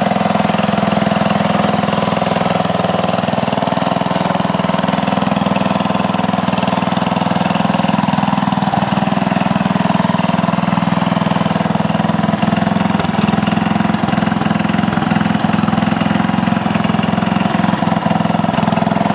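Sears Companion riding lawn tractor's engine running steadily, on its first run after sitting for seven years.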